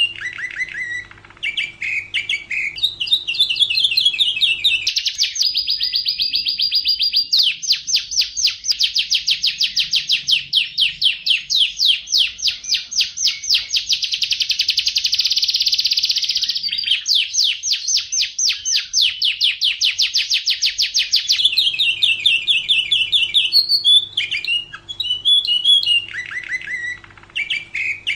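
Domestic canary singing. Varied chirping phrases give way after about five seconds to a long fast trill of rapidly repeated notes lasting about fifteen seconds, then varied phrases return.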